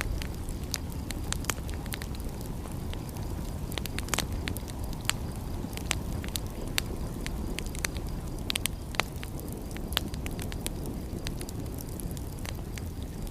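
Wood fire crackling, with irregular sharp pops and snaps of varying loudness over a steady low rushing bed of noise.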